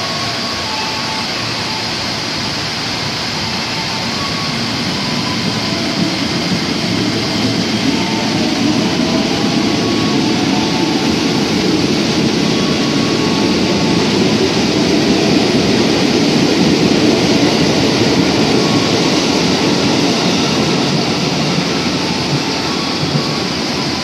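Electric commuter train running along the rails, a steady rumble of wheels on track. It grows louder through the first half and eases a little near the end as the train pulls away.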